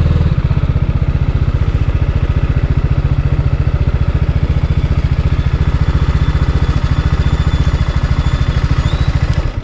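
TVS Apache RR 310's single-cylinder engine running steadily at an even beat, stopping abruptly near the end.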